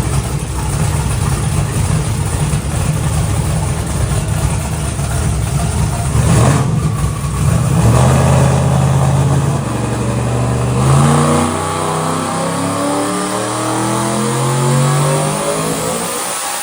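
Twin-turbocharged truck engine running loud at full throttle on a chassis dyno, revving through a pull while the street tires spin on the rollers. The sound changes and eases somewhat about eleven seconds in.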